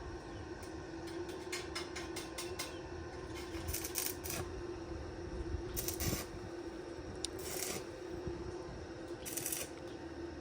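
A quick run of light clicks, then four short scraping sounds, over a steady hum.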